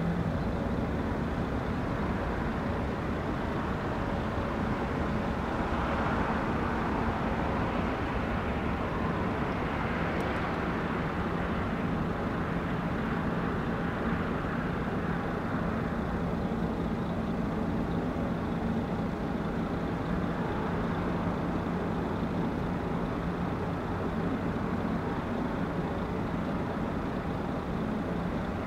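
Boeing 777-300 jet engines running at taxi power, a steady drone with a faint steady hum that swells slightly a couple of times.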